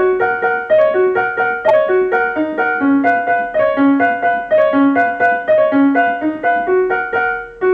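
Music: a piano melody played in single notes, a short phrase repeated over and over.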